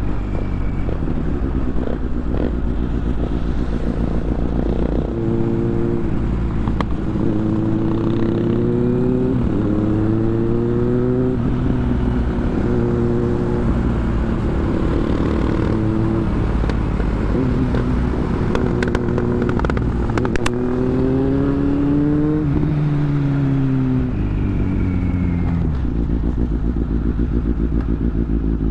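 Motorcycle engine under way, its pitch climbing as it accelerates and dropping back at gear changes several times, then winding down as the bike slows near the end before settling to a steadier note.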